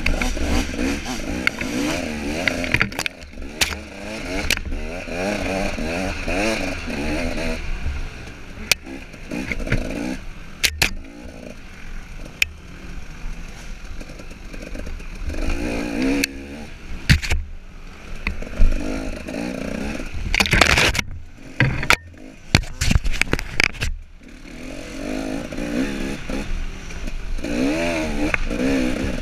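Two-stroke engine of a KTM 300 XC dirt bike revving up and down under changing throttle on a trail ride, easing off in stretches, with repeated sharp knocks and clatter from the bike over rough ground.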